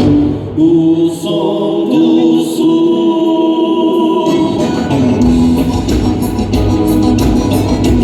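Live band music with singing: about half a second in the bass and drums drop out, leaving long held notes, and the full band comes back in about four seconds in.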